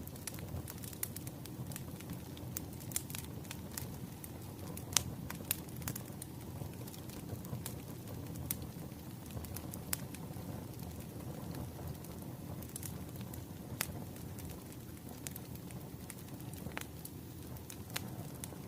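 Wood fire crackling: scattered, irregular sharp pops and snaps over a steady low noise of the flames.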